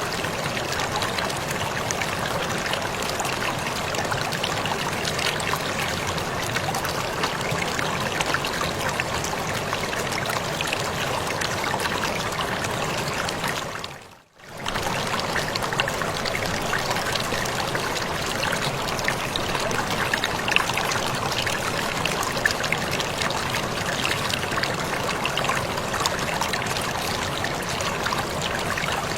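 Steady splashing rush of a waterfall, with a brief fade to near silence and back about halfway through.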